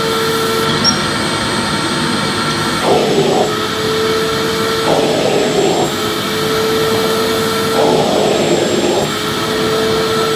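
Vacuum cleaner running steadily: a constant rushing noise with a steady motor whine. Every two to three seconds the whine briefly dips and turns rough, then settles again.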